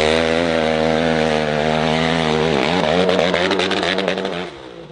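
Dirt bike engine revving hard on a steep rocky climb. The revs dip about halfway through and pick up again. Near the end comes a clatter of knocks from stones and the bike, and then the engine note falls away.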